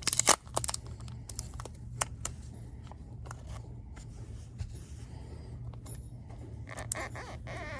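Scattered clicks, taps and light rattling as a throttle body is handled, the loudest near the start and a cluster near the end, over a steady low hum.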